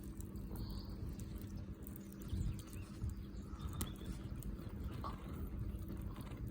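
Large bonfire burning: a low rumble with scattered sharp crackles and pops.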